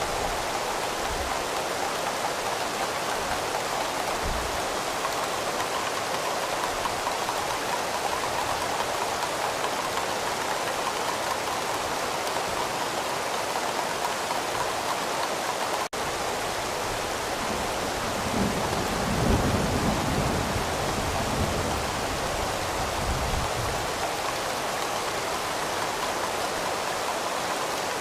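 Steady heavy rain, an even hiss throughout. A low roll of thunder swells and fades in the second half. Just past halfway the sound cuts out for a split second.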